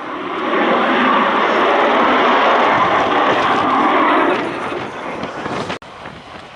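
Military aircraft engine noise, loud, swelling in about half a second in and holding for a few seconds before falling away, then cutting off abruptly near the end.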